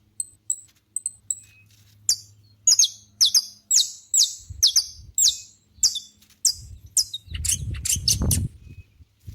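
Saffron finch singing: a few short high chips, then a run of sharp down-slurred whistled notes about two a second that come faster near the end. A low rumble sits under the song about three-quarters of the way through.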